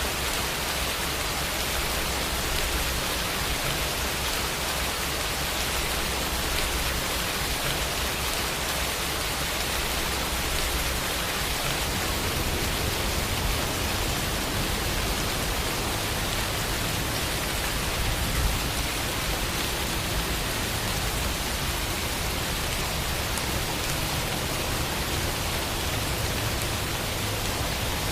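Steady rain falling, an even hiss of many drops, with a brief slightly louder patch about two-thirds of the way through.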